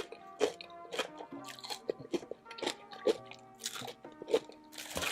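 Close-miked biting and chewing of crunchy deep-fried chicken, with sharp crunches about every half second, over background music.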